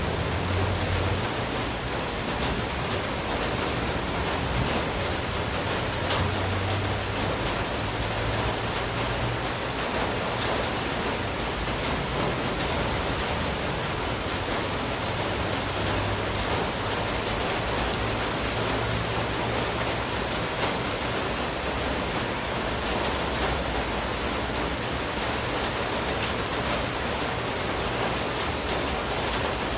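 Steady monsoon downpour: heavy rain making an even, unbroken hiss, with a low rumble that swells and fades several times.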